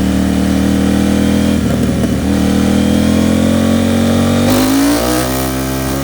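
KTM 790 Duke's parallel-twin engine through an Arrow Pro Race titanium exhaust, running at low revs on light throttle with its pitch slowly climbing. About four and a half seconds in the revs rise briefly and the tone changes, then it settles lower.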